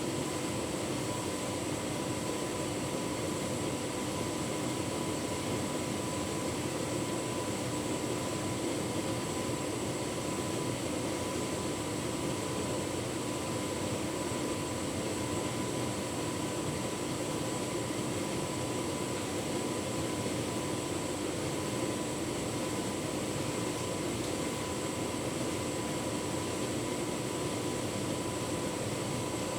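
Tumble dryer running with a full load of bedding: a steady whirr of its fan, motor and turning drum, with a faint steady whine over it.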